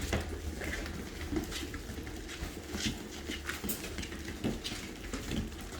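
Six-week-old Great Dane puppies playing together: scattered scuffling, paw patter and small knocks, over a steady low hum.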